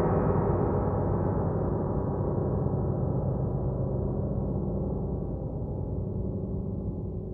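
The long tail of a cinematic horror sound effect: a deep, gong-like metallic ringing, struck just before, that fades away slowly and steadily.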